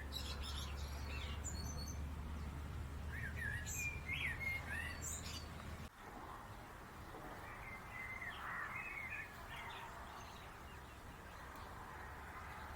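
Birds chirping and calling in short bursts over a steady low background noise, with a brief break in the sound just before six seconds in.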